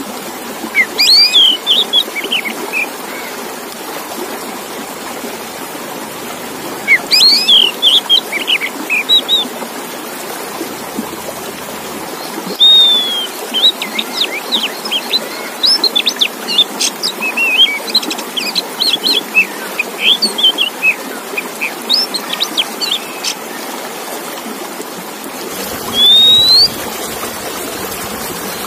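Male Oriental magpie-robin (kacer) singing: phrases of sharp whistles and rapid chirps come in bursts a few seconds apart, with a long varied run in the middle and clear rising whistles near the end. Under the song runs a steady rushing hiss.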